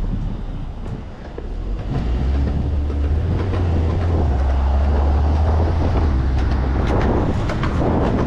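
A large vehicle passing close by in city traffic: a low hum swells for about four seconds and then fades. Wind rushes over the microphone of the moving bike, and a few sharp clicks come near the end.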